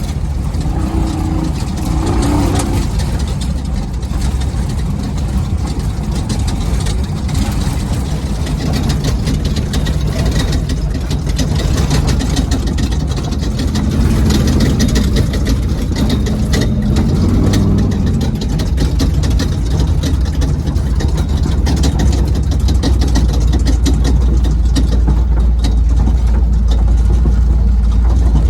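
Off-road race truck's engine running under way, heard from inside the truck, with constant rattling and knocking over rough ground. The low engine sound grows stronger near the end.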